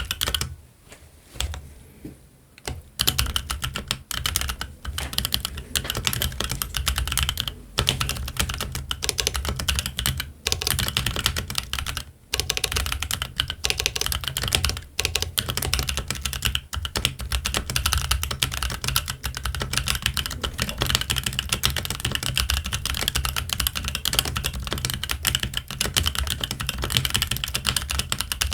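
Keychron Q1 mechanical keyboard with Gazzew Boba U4T tactile switches and ABS Cherry-profile keycaps being typed on. A few separate keystrokes come first, then fast, continuous typing with only brief pauses.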